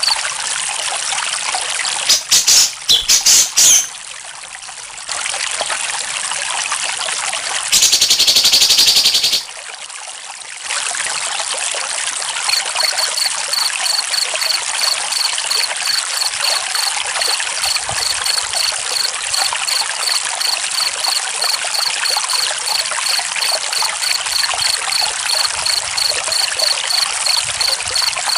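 Water trickling steadily, with a cricket chirping in an even pulse about twice a second from roughly the middle on. Near the start there are two loud brief noisy bursts.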